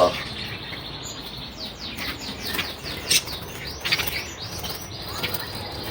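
Many caged small birds chirping together: quick downward-sweeping chirps and fast trills overlapping in a busy chorus.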